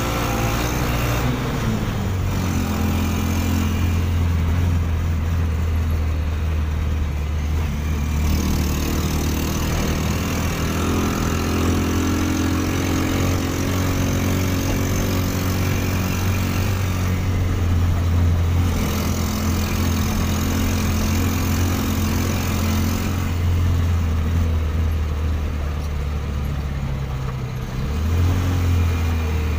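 Motorbike engine fitted in a Suzuki ST20 car, running steadily under way and heard from inside the cab with road noise. The engine note changes about a second in and rises near the end.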